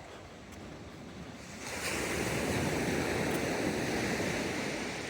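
Sea waves breaking on the beach: a wave rushes in about one and a half seconds in, holds, then slowly fades.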